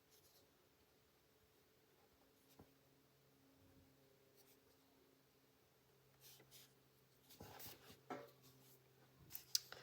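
Faint strokes of a coloured pencil on paper, mostly near silence at first, then a few short scratchy strokes in the last few seconds.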